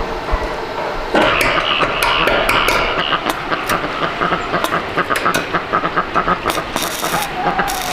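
Irregular clattering and knocking from metalwork on an iron frame over a steady rushing noise, which grows louder and brighter about a second in.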